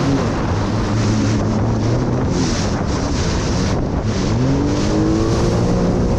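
Jet ski engine running under way, easing off about four seconds in, then revving back up to a higher steady pitch, with wind on the microphone.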